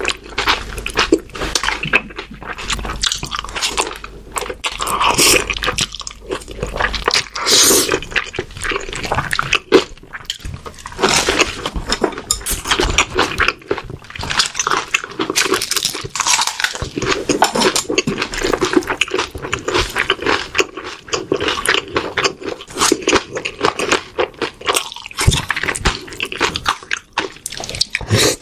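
Close-miked chewing and crunching of a spicy seasoned shredded dish, with wet mouth sounds and many short crunches in quick succession.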